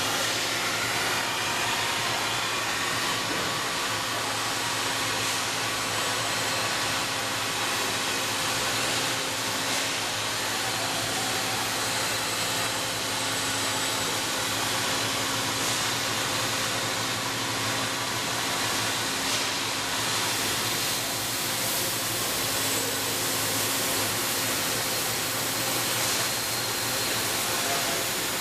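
Cutting torch of a CNC beam-coping machine cutting through a steel beam: a steady hiss with a constant low hum underneath, unbroken throughout.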